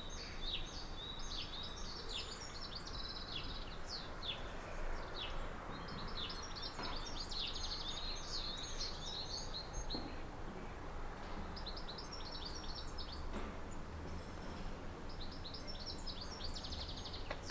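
Small songbirds singing in short chirps and quick trilled phrases, over a steady low hum of distant town noise.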